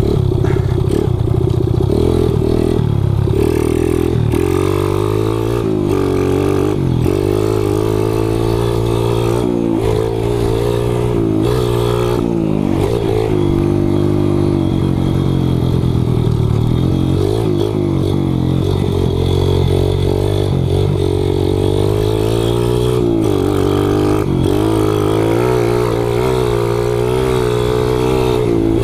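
Kawasaki KLX110 pit bike engine, bored out to 165 cc and fitted with an FMF exhaust, revving up and down over and over as the bike is ridden, its pitch rising and falling every second or two.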